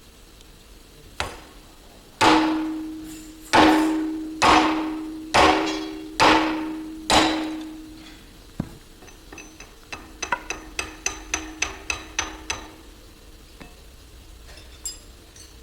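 A hammer striking metal. One knock, then six heavy blows about a second apart, each leaving a ringing note, followed by a quicker run of about a dozen lighter taps.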